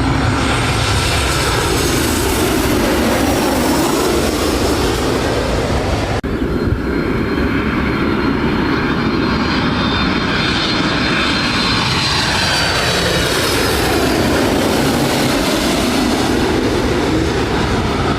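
Jet airliner passing close by, loud and steady, its tone sweeping slowly up and down as it goes past. A sudden break about six seconds in.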